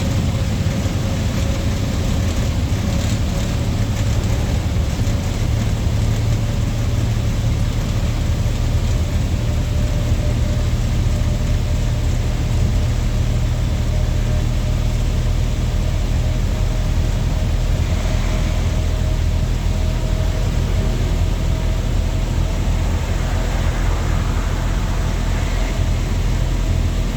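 Lorry engine running steadily on the move, a heavy low drone with road noise and a faint whine that rises slowly in pitch.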